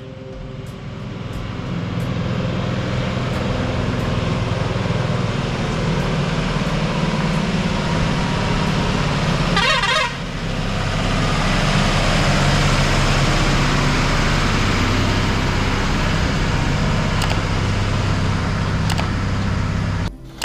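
Heavy truck's diesel engine running hard under load, with a brief warbling horn toot about ten seconds in.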